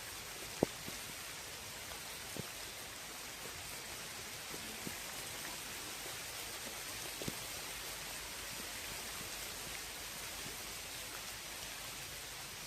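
Rain shower falling steadily on a lake's surface, an even hiss, with a few sharp drop ticks standing out, the loudest about half a second in.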